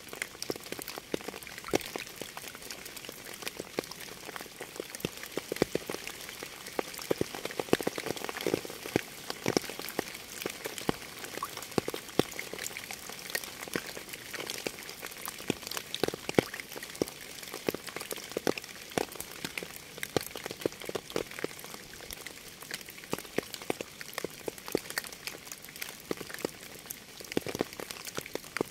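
Rain falling: a steady hiss with many separate drops landing close by as sharp, irregular clicks.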